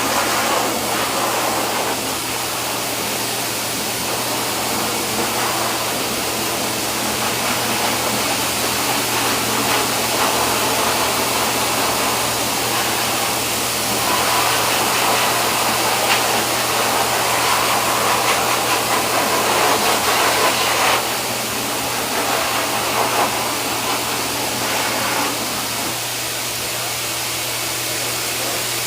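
Grooming equipment running steadily: a continuous rushing hiss of air or water over a constant low hum, swelling and easing as it is moved about.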